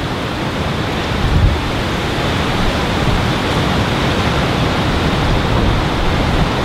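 Hurricane-force wind blowing as a steady, unbroken rush of noise, with low buffeting of wind on the microphone.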